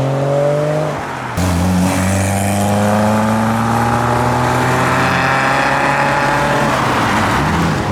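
Modified car engines pulling away at low revs, their pitch climbing slowly as they accelerate out in gear. One engine note breaks off abruptly about a second and a half in and another takes over, rising steadily.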